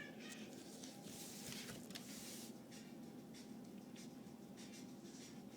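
Faint rustling and scratching noises, with a soft hissing rustle lasting about a second and a half from about a second in. The end of a kitten's meow trails off at the very start.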